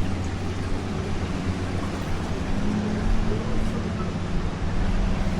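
A steady low engine hum over a constant wash of background noise.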